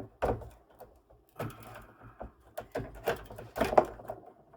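Small plastic clicks, knocks and scrapes of a laptop's internal parts being handled and unplugged during disassembly: the battery being disconnected and lifted out of the Asus X550C. The knocks come in a loose cluster, busiest in the second half.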